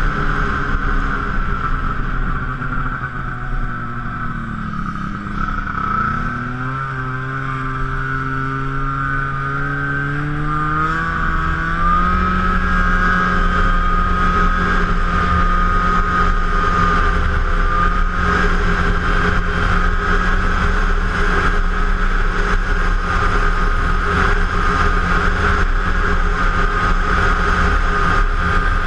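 2006 Arctic Cat F7 Firecat Sno Pro snowmobile's two-stroke twin engine running under way: the engine note falls for the first few seconds as it slows, climbs back up over the next several seconds, then holds steady at speed, with a high steady whine over it.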